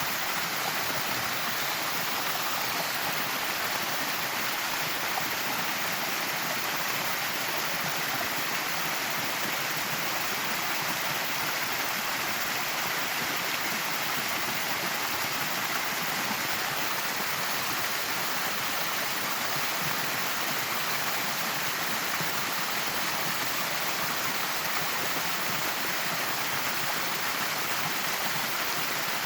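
Steady rushing splash of a small waterfall: water welling out from the base of a living western red cedar and pouring over rock, swollen by weeks of heavy rain.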